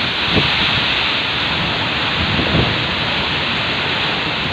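Heavy rain falling steadily: a dense, even hiss, with a couple of brief low bumps.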